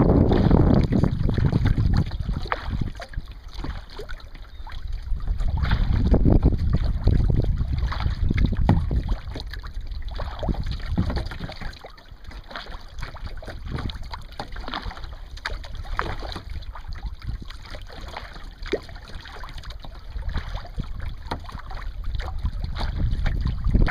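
Wind buffeting the microphone in gusts that rise and fall, with small splashes and drips of water from a kayak on a pond.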